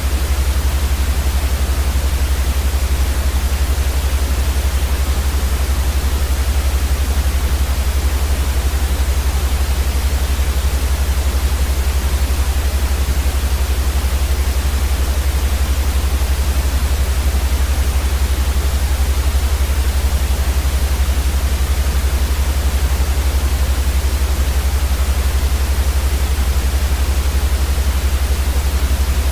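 Steady white noise for sleep: an even, unchanging hiss across all pitches over a strong deep rumble.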